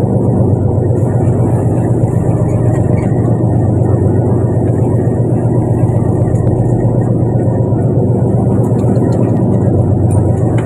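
Fishing boat's engine running steadily: an even, low drone that holds the same pitch and level throughout.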